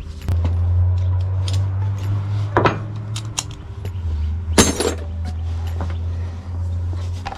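Sharp metallic clinks of tools or small parts being handled, the loudest about two and a half and four and a half seconds in, over a steady low hum that starts just after the beginning.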